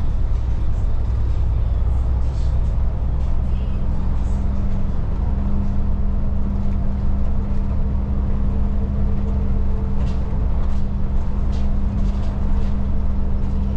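Inside a Volvo 8900 city bus under way: the engine and drivetrain give a steady low drone with a constant hum, and small rattles and clicks come from the cabin. A second, higher hum joins about halfway through.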